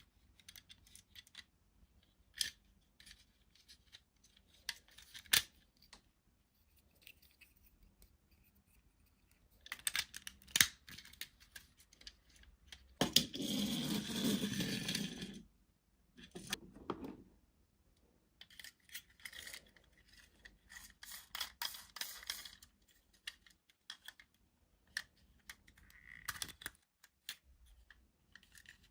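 Toy packaging and plastic toy parts being handled: scattered clicks and taps, with a longer rustling, scraping stretch lasting a couple of seconds about halfway through.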